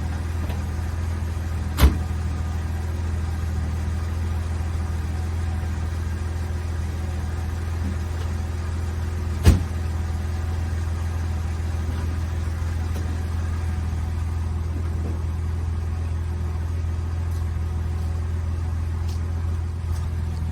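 1971 Jaguar E-Type engine, fitted with triple SU carburettors and a Borla Corsa SS exhaust, idling steadily after a cold start. Two sharp clicks sound about two seconds in and again near the middle.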